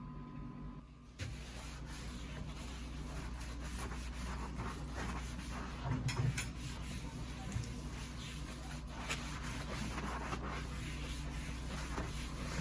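Quiet household handling sounds: soft rubbing and scraping with scattered small clicks and a few light knocks about halfway through, over a steady low room hum.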